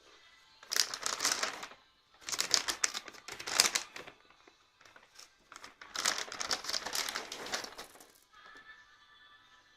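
Dry cat food rattling into bowls in three separate pours, each a dense clatter of kibble lasting one to two seconds.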